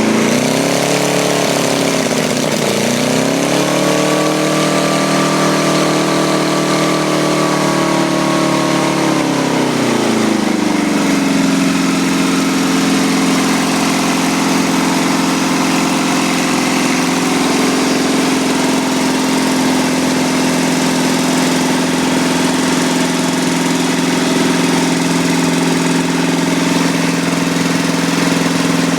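Briggs & Stratton 6 hp single-cylinder engine running on a pressure-washer carburettor. Its speed dips sharply twice in the first three seconds and picks up again, holds a faster speed, then drops about ten seconds in to a steady, slower idle.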